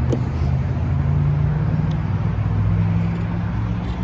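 A motor vehicle's engine running steadily nearby with a low hum that wavers slightly in pitch, over a background of road traffic.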